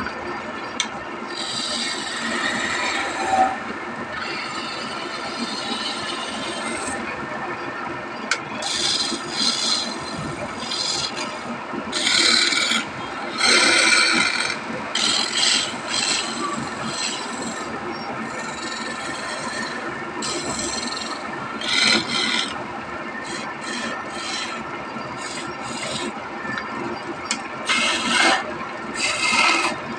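Wood being scraped by hand in irregular strokes, each lasting about half a second to a second and a half, over a steady background hum.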